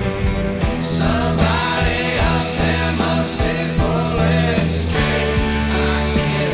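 Rock song with a sung vocal line over guitar, bass and drums. The voice comes in about a second in and drops out near the end.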